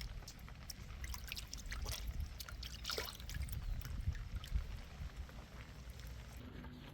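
Rain dripping and pattering: many irregular drops ticking over a steady low rumble.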